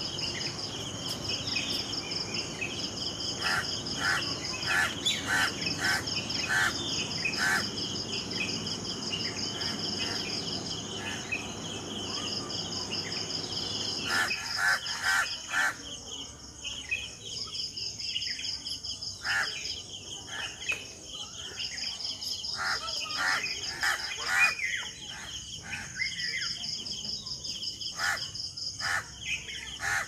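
Birds calling in short notes, often several in quick series, over a steady high-pitched insect trill that pulses in stretches of a second or two. A low background hum cuts off suddenly about halfway through.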